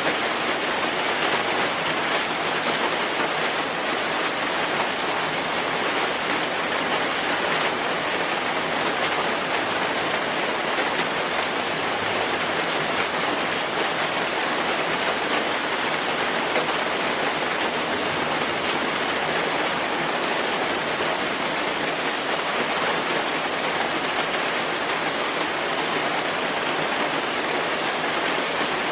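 Steady rainfall: an even hiss of rain with fine drop ticks, unchanging throughout.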